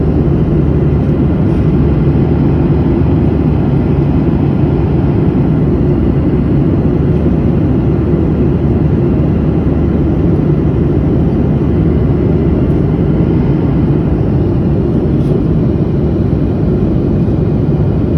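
Steady cabin noise of a passenger airplane in flight: a constant low rumble of engines and rushing air that does not change.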